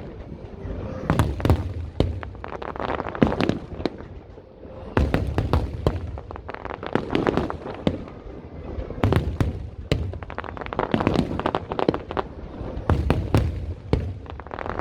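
Fireworks display: rapid clusters of sharp cracks and pops over low booming bursts, going on throughout with a brief lull around four seconds in.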